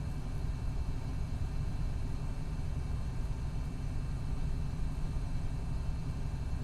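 2019 MCI D4500CT coach bus with a Cummins ISX12 diesel running steadily: an even low drone with road and running noise, no change in pitch or level.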